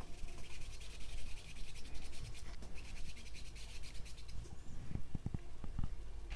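Paintbrush rubbing acrylic paint onto the painting surface in a quick, scratchy run of strokes, with a few soft clicks near the end.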